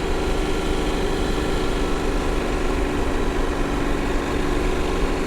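KTM motorcycle engine running steadily, its pitch holding nearly constant, with wind and road noise.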